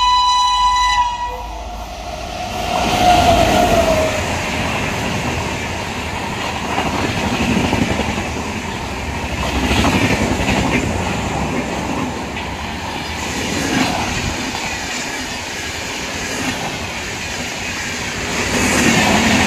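Electric locomotive's horn sounding and cutting off about a second in. Then the express train passes at speed, its coaches' wheels rumbling and clattering over the rail joints, the noise swelling and easing as the bogies go by.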